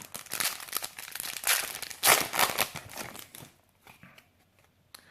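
Foil wrapper of a Yu-Gi-Oh booster pack crinkling as it is torn open by hand, in rapid crackly rustles that die away about three and a half seconds in.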